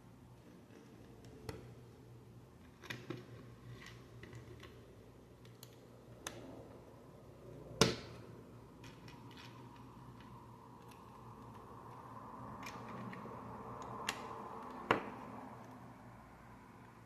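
Plastic Lego pieces being handled and pressed together: scattered sharp clicks, the loudest about eight seconds in, with a soft rustling that swells in the second half.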